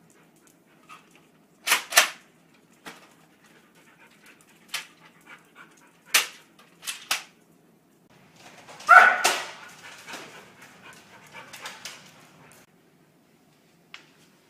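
A dog barking in short sharp barks, several in quick pairs, with a longer, louder bark about nine seconds in.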